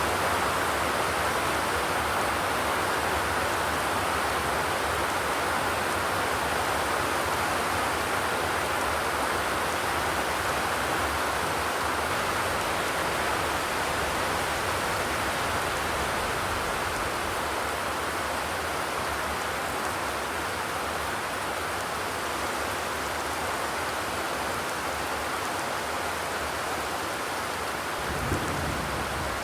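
Steady rain falling on a zinc roof: a dense, even hiss. A brief low thump comes near the end.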